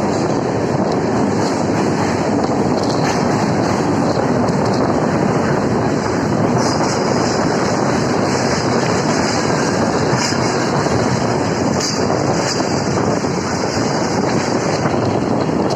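Electric suburban local train running, heard from on board: a loud, steady rumble of wheels on the rails.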